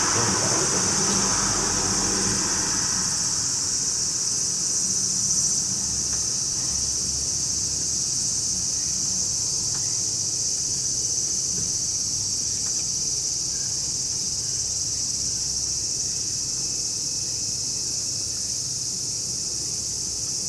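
Insects droning steadily in a high, even chorus, with a low hum underneath.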